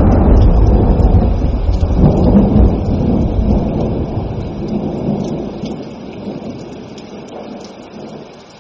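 A long roll of thunder, loud at first and slowly fading away over several seconds, with rain falling.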